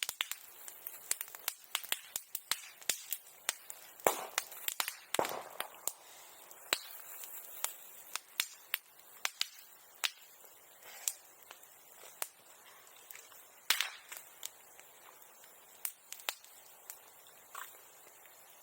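Bonfire crackling, with sharp irregular pops and cracks from the burning wood, a few of them noticeably louder.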